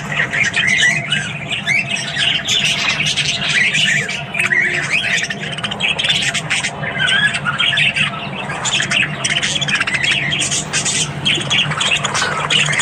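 A flock of budgerigars chattering and squawking continuously, a dense mix of warbling and sharp calls. A steady low hum runs underneath.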